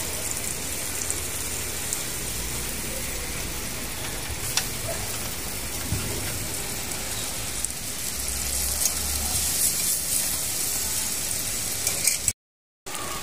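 Onion rings and oil sizzling on a hot griddle plate over a portable gas stove, a steady frying hiss with a few light clicks. The sound drops out completely for about half a second near the end.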